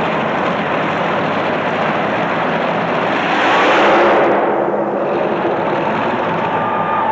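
Big race-truck engine running hard at wide-open throttle, building to a peak about four seconds in and then falling away in pitch and loudness, like a truck passing close by.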